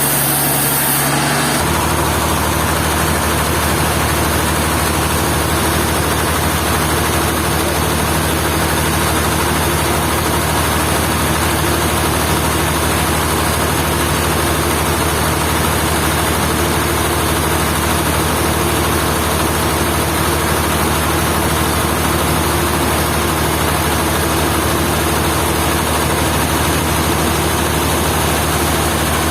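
Sawmill machinery running steadily with a heavy engine-like hum; the sound shifts once about a second and a half in, then stays even.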